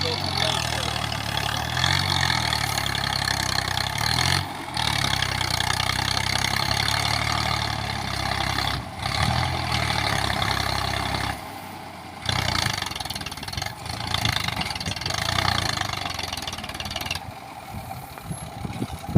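Massey Ferguson 240 tractor's diesel engine running steadily, its speed rising and falling slightly, broken by a few short gaps.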